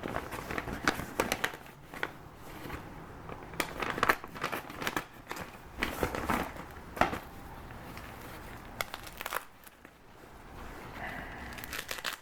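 Packaging crinkling and rustling as it is handled, in irregular short crackles.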